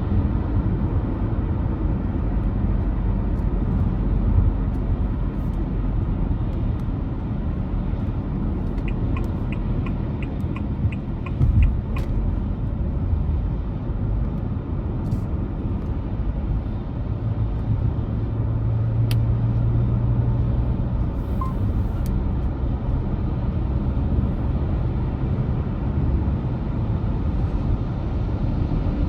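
A car driving along, with steady road and engine rumble. A short run of evenly spaced ticks, about three a second, comes about ten seconds in. A low hum swells and fades about two-thirds of the way through.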